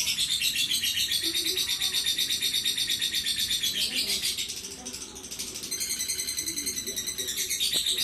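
Lovebird chattering in a long, unbroken run of rapid high-pitched notes, the continuous 'ngekek' song that keepers call bocor. It softens briefly around the middle, then picks up again.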